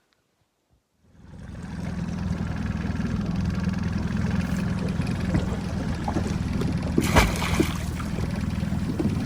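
A small boat's motor running steadily under a wash of water noise, starting about a second in, with a short thump about seven seconds in.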